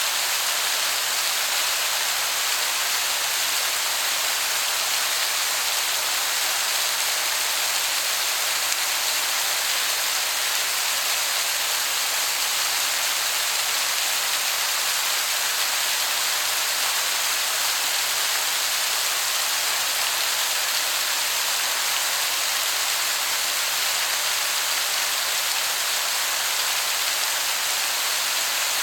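Waterfall pouring: a steady, even hiss of falling water that sounds like heavy rain.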